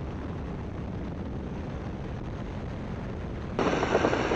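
Steady engine and wind noise in the open cockpit of a Great Lakes biplane in flight. A short, louder burst of radio static comes about three and a half seconds in.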